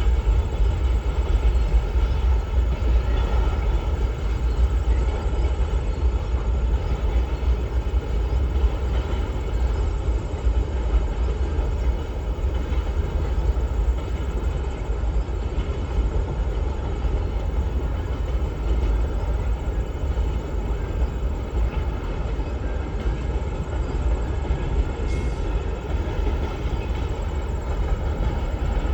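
A long train passing close by, its cars rolling over the rails in a steady, unbroken rumble.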